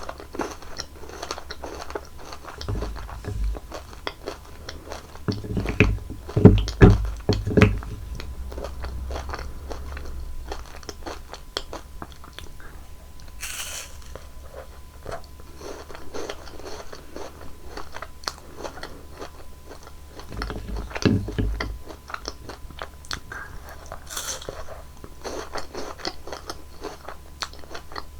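Close-up eating sounds of crunchy chocolate candies being bitten and chewed: many small crunches and mouth clicks, with heavier bites about six to eight seconds in and again about twenty-one seconds in.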